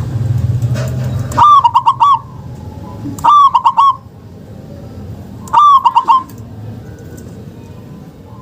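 Zebra dove (perkutut) cooing: three phrases of quick, bubbling notes, each under a second long and a second or two apart. A low hum in the first second and a half stops as the first phrase begins.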